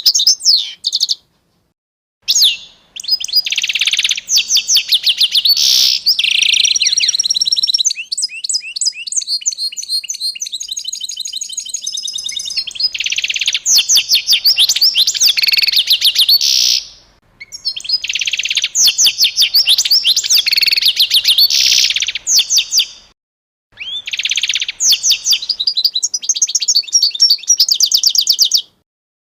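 A songbird singing long bouts of rapid, high chirps and trills, with short breaks between bouts.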